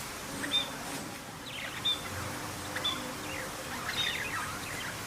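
Small birds chirping: four short, sharp high chirps about a second apart, with quick runs of falling twittering notes between them, over a steady background hiss.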